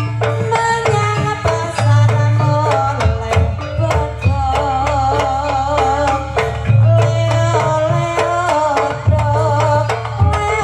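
Live jaranan kuda lumping ensemble music: quick hand-drum strokes under a wavering melody line, over a deep sustained bass that drops out and returns several times.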